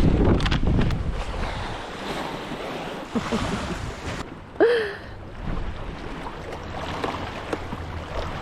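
Wind buffeting the microphone over the wash of waves and water around a small boat, gustier and louder at the start. About halfway through there is one short high-pitched call.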